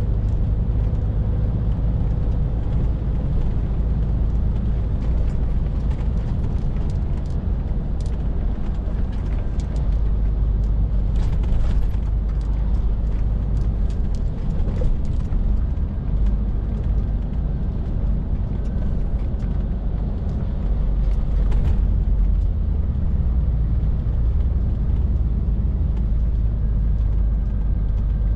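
Scania R450 lorry's 13-litre six-cylinder diesel running steadily on the move, a low drone with road and tyre noise over it. There are scattered light clicks through the middle.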